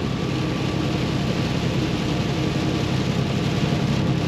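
Paccar MX13 diesel of a Kenworth T680 semi truck running steadily at highway speed, heard inside the cab as a low, even hum over a steady hiss of tyres on wet road and rain.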